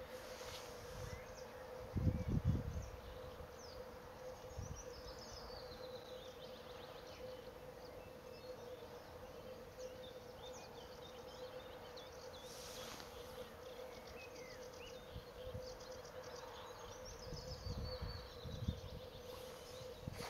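Small birds calling in thin, high whistles, many of them falling in pitch, over a steady low hum. Low rumbles, likely wind on the microphone, come about two seconds in and again near the end.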